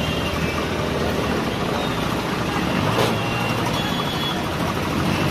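Road traffic: truck and car engines running steadily at low speed, with a brief sharp knock about three seconds in.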